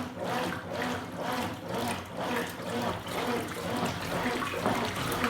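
Consul Super Cargo 8 kg top-load washing machine agitating a load of towels in rinse water. The water sloshes in even surges about twice a second as the agitator swings back and forth, over a steady motor hum.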